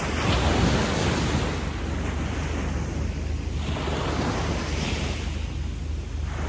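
Small sea waves breaking and washing up a sandy beach, a steady hiss of surf that swells about a second in and again around four to five seconds.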